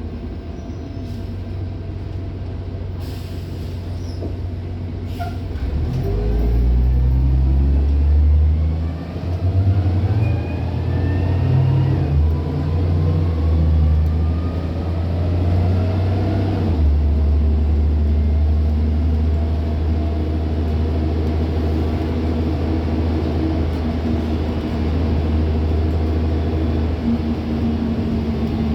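Diesel engine of a Van Hool AG280 articulated bus heard from on board: idling low, a short hiss of air about three seconds in, then pulling away about six seconds in. The engine note climbs and drops back at gear changes a few times, then settles into a steady drone while cruising.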